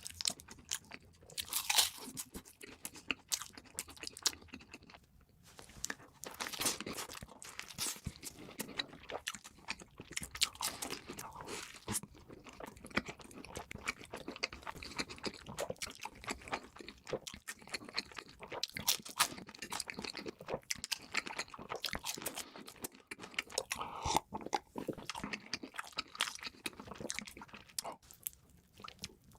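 Close-miked eating: crunchy bites and chewing of crispy fast food, with many sharp crackling crunches coming irregularly one after another.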